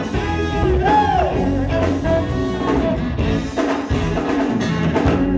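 A live band plays a pop-rock song with drums and guitar in a short break between sung lines. About a second in, a voice slides up and back down in pitch without words.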